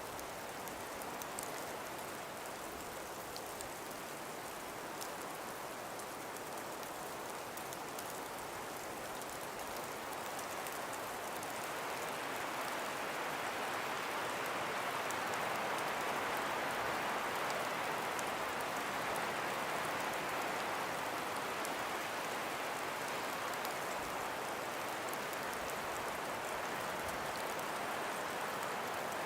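Breeze rushing through a frost-covered forest: a steady hiss that swells into a stronger gust about halfway through, then eases slightly.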